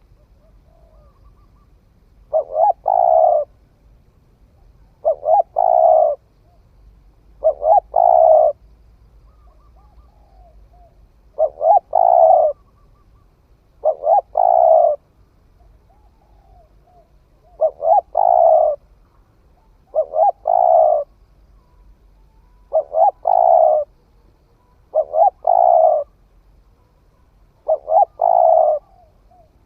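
Spotted dove cooing from a bird newly come into song: a repeated phrase of a couple of short notes running into a longer coo, about every two to three seconds, with faint softer calls in between.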